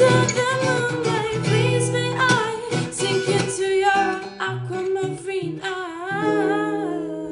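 A woman singing a love song over guitar. The song ends on a final held chord that rings out and fades from about six seconds in.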